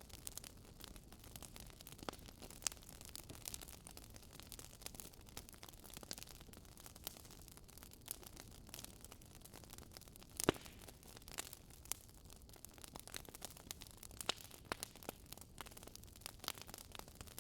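Wood fire crackling, with irregular small snaps and pops over a soft steady hiss and one sharper pop about ten seconds in.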